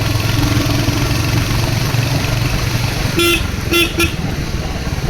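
Royal Enfield Hunter 350's single-cylinder engine running with a steady low rumble, and a vehicle horn giving three short beeps about three to four seconds in.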